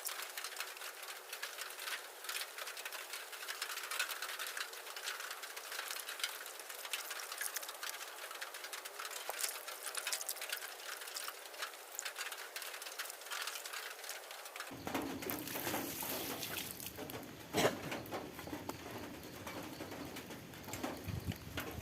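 Heavy rain pattering steadily, a dense run of small drop impacts, with one sharp knock about three-quarters of the way through.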